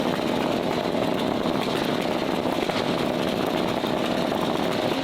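Modified car engine running steadily at idle, with no revving.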